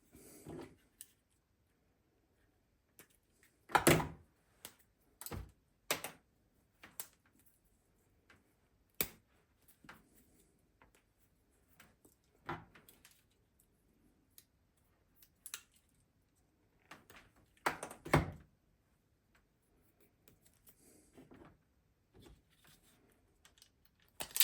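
Scattered clicks and knocks of tools and parts being handled during the mower's repair, at uneven intervals, with two louder knocks about four and eighteen seconds in.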